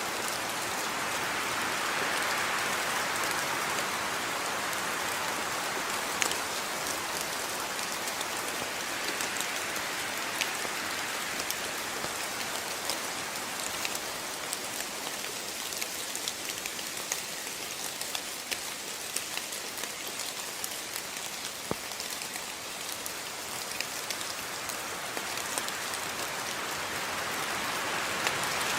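Steady rain falling, with individual drops pattering and ticking on a surface over an even hiss; the rain swells a little near the start and again near the end.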